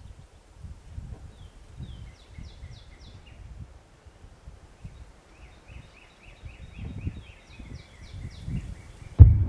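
Open-field ambience: low rustling and wind on the microphone, with two bouts of a small songbird's quick, falling chirps. A sudden loud thump comes near the end.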